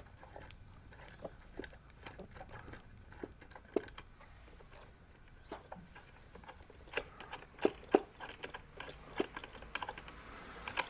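Small metal Allen wrenches clinking and rattling as they are sorted through by hand, in scattered light clicks with a few sharper ticks.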